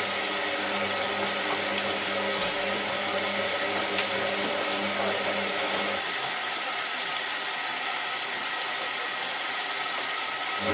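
Hotpoint 9534A washing machine filling with water, a steady rushing with a low hum underneath. The hum stops about six seconds in while the rushing carries on, and returns with a click at the very end.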